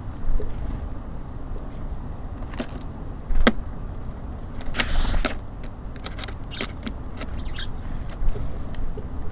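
Small birds busy at a feeder: scattered pecks and taps, with a brief rustle about five seconds in, over a low steady rumble.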